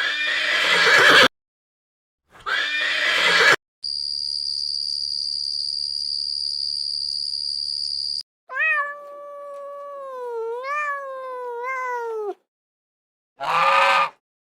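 A run of separate animal calls with silent gaps between them: two short harsh calls, a steady high whistling tone for about four seconds, then a long pitched call that wavers up and down in pitch, and a short call near the end.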